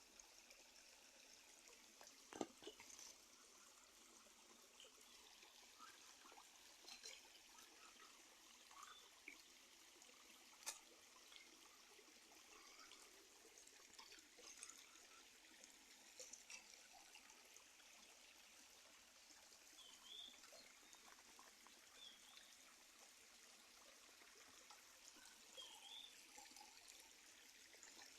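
Faint steady rain, an even hiss with scattered drips and light patters. A sharper single tap comes about two seconds in and is the loudest moment.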